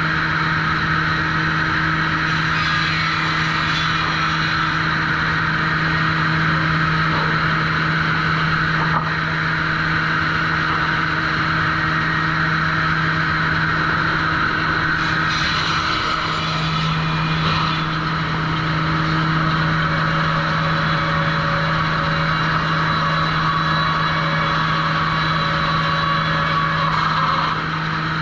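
Sawmill machinery at a trim saw station running steadily: a constant low hum under a dense mechanical hiss, with a short rise in high hiss about fifteen seconds in.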